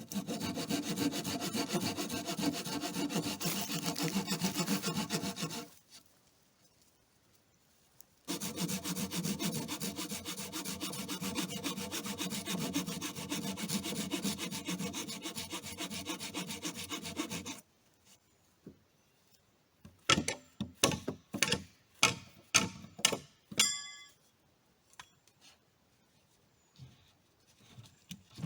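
A saw cutting through wood in two long runs, the second beginning after a short pause. After the cutting stops comes a quick series of sharp knocks, the loudest sounds here.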